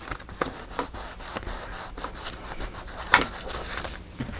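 Hands rubbing and handling paper, with scattered small crinkles and taps and one sharper tick about three seconds in.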